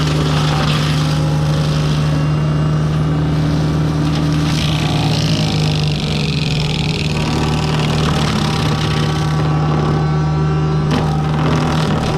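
Diesel engine of heavy land-clearing equipment running steadily at high speed, a constant deep hum with a whine of hydraulics and a shifting rushing noise over it.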